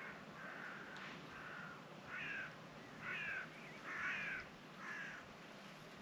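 A large bird calling over and over: seven short, harsh calls about a second apart, loudest a little past the middle, over a faint steady hiss.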